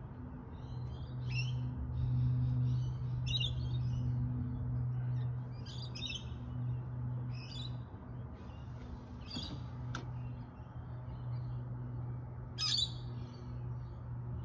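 Small birds chirping in short twittering phrases that repeat every second or two, over a steady low hum, with a single sharp click about ten seconds in.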